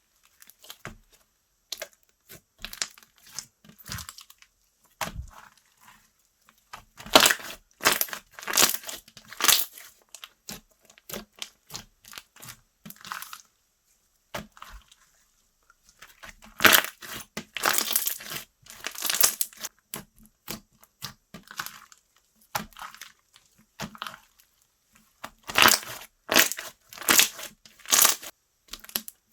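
Slime being pressed, stretched and squished by hand, giving a stream of short sticky clicks and pops, with three louder flurries of rapid popping.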